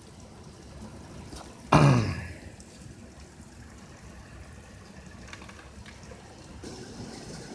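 Heavy rain pouring outside, a steady faint wash of water noise. About two seconds in comes one short, loud vocal sound that falls in pitch, like a throat clearing.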